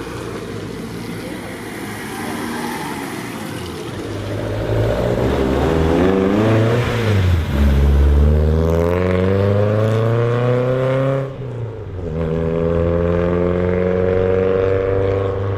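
Car engine accelerating hard through the gears, pitch climbing, a brief drop at a gear change, then climbing again.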